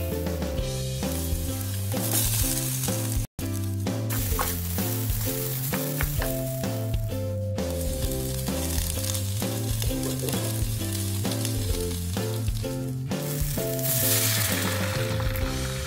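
Chopped vegetables and chicken feet sizzling in oil in a hot electric pan, stirred with a wooden spatula, under background music with a steady melody. The sound drops out briefly about three seconds in, and near the end a louder hiss comes as water is poured into the hot pan.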